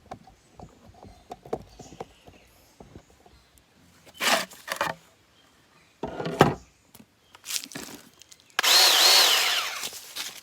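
A power saw cutting wood in short bursts. The last burst, near the end, is the longest and loudest, and the motor pitch rises and falls twice during it.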